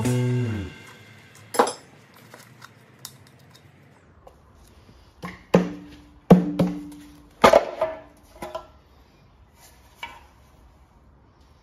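Metal knocks and clinks of hand tools and parts being worked on a Holden grey motor during teardown. About half a dozen sharp knocks come at uneven intervals, and two of them ring briefly. The tail of a guitar music track fades out at the very start.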